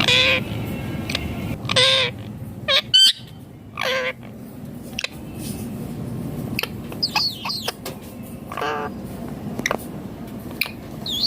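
Ringneck parakeet calling: four loud, harsh calls about two seconds apart, with a gap before the last, and short high chirps and whistles in between, over a low background rumble.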